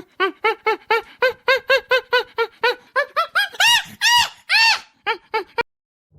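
Small dog yapping rapidly, a quick run of short barks about four a second, then three longer, higher-pitched yelps near the end.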